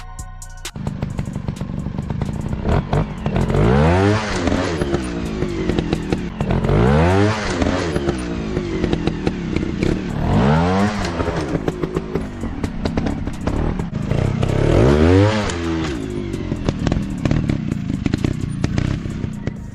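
Single-cylinder dirt bike engine revving up and dropping back four times, about every three to four seconds, with clattering and knocks throughout.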